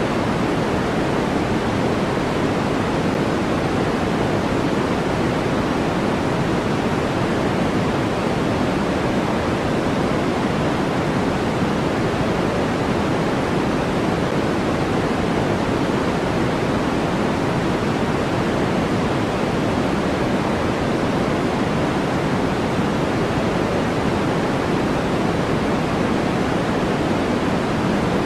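Steady, electronically generated noise of the kind sold as white noise. It is an even, unchanging hiss, fuller in the low-middle range than in the treble.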